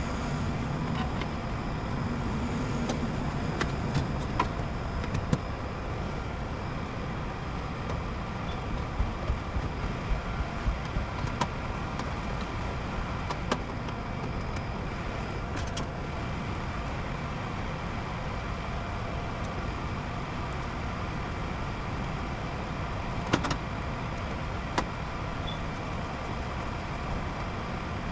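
High-efficiency condensing gas furnace running on a call for heat, its fans making a steady whirring hum, with a few light clicks and taps scattered through.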